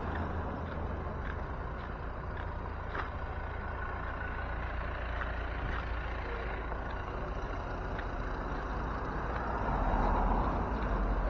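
Motor vehicle on the road: a steady low engine and road rumble that swells louder near the end.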